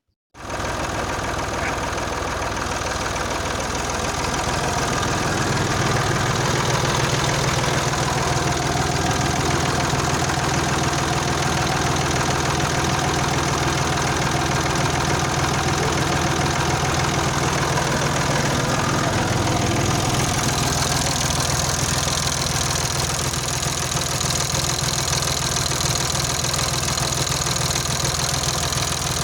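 Ursus C-360 3P tractor's four-cylinder diesel engine idling steadily, cutting in suddenly at the start; its tone shifts a little about two-thirds of the way through.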